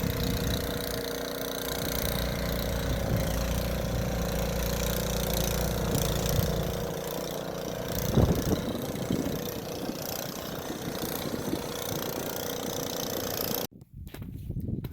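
An engine running steadily, with a louder knock about eight seconds in.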